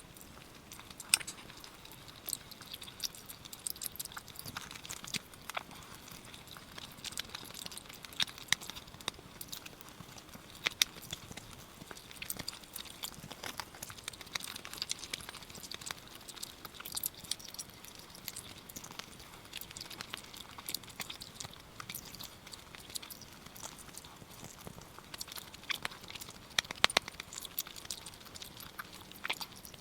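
Close-miked chewing and eating: wet mouth smacks and sharp little clicks, irregular and continuous, with a few louder bites.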